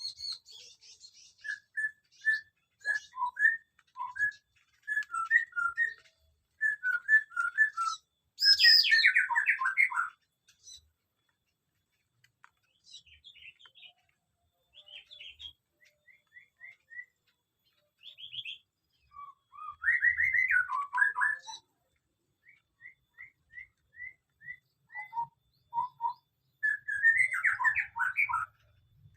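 Small aviary birds calling: runs of short, repeated whistled chirps, broken by louder twittering flurries about a third of the way in, around two-thirds, and near the end.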